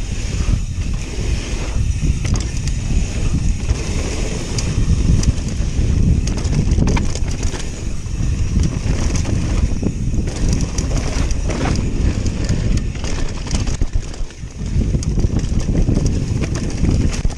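Mountain bike riding downhill over a wet, rough trail: a continuous rumble of tyres and wind on the microphone, with frequent small knocks and rattles from the bike.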